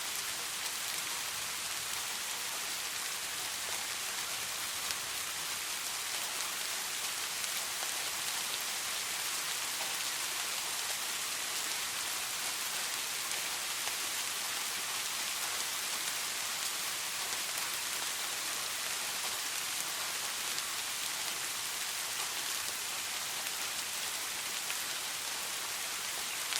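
Steady rain falling and pattering on a surface, a continuous even hiss of drops.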